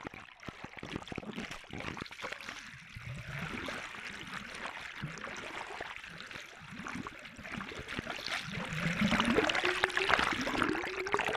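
Sea water splashing and gurgling close to the microphone, with many small splashes, louder in the last few seconds. A tone rises steadily in pitch over the final three seconds.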